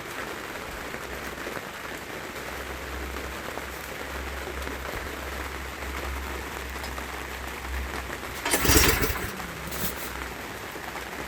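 Steady rain pattering, with a low rumble underneath, broken about nine seconds in by a loud, brief thump and rustle of handling noise.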